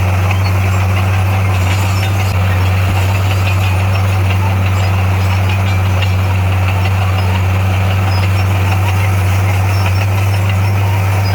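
Bulldozer's diesel engine running at a steady speed: a constant deep hum that holds the same pitch throughout, with faint scattered clicks above it.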